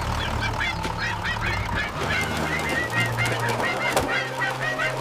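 Geese honking together, many short calls in quick succession over a low steady drone.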